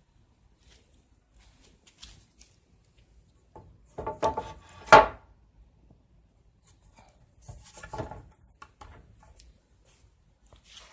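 A few knocks and a scraping clatter, the loudest about five seconds in, then a quieter patch of clicks and rustling a few seconds later.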